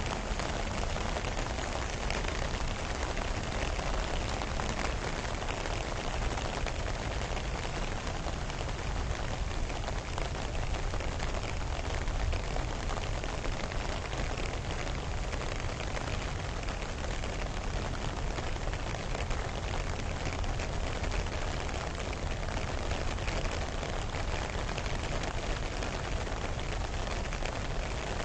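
Steady heavy rain falling on lake water and grass, an even dense hiss with a deep rumble underneath.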